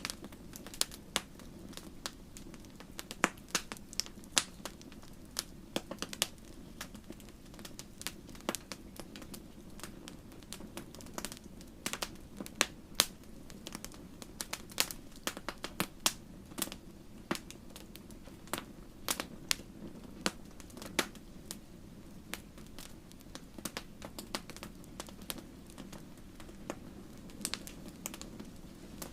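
Wood fire crackling in a fireplace: irregular sharp pops and snaps, several a second at times, over a steady low rush of flame.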